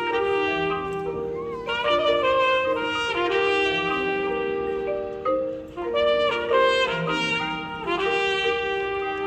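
High school marching band playing, led by trumpets and other brass in sustained, shifting chords.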